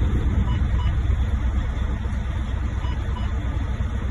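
Semi truck's diesel engine idling steadily at about 600 RPM just after being started, an even low throb heard from inside the cab.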